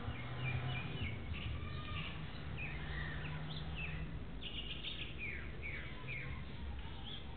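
Small birds chirping, many short falling chirps one after another, over a low steady hum.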